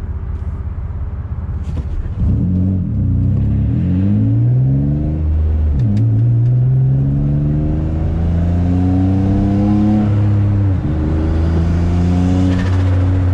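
Single-turbo Infiniti G35's VQ35 V6, on low boost, accelerating hard. About two seconds in the throttle opens and the revs climb loudly, dropping at each upshift about 3, 6 and 11 seconds in, then climbing again.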